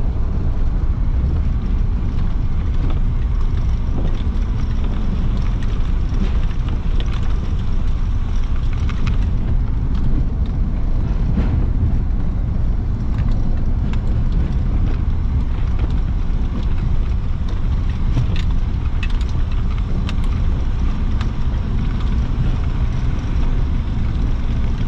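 A vehicle driving on a rough forest road: a steady low engine and road rumble with scattered light knocks and rattles.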